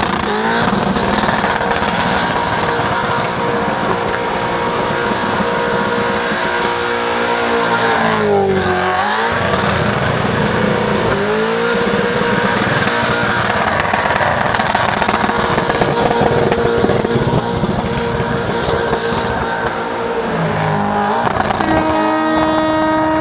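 Holden Commodore's LS V8 held at high revs in a burnout, rear tyres spinning on the pad. The revs drop sharply twice around the middle and climb straight back. A steady pitched tone joins near the end.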